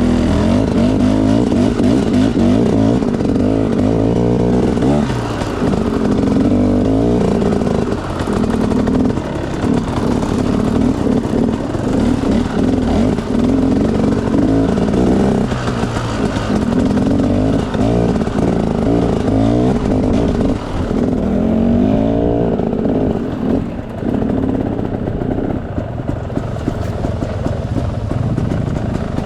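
Enduro dirt bike engine running under constantly changing throttle, its pitch rising and falling again and again as it is ridden off-road.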